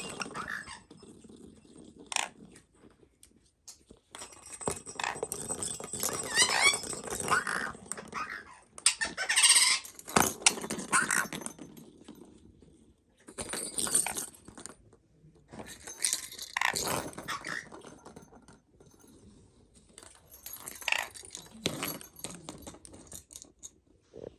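Pet parrot vocalizing in several bouts of chatter and squeaks, some rising in pitch, mixed with sharp clicks and knocks.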